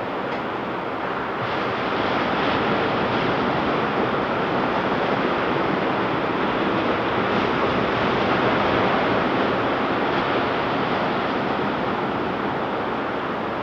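Ocean surf breaking and washing on a beach: a steady rushing wash that swells a little after the first couple of seconds, with some wind on the microphone.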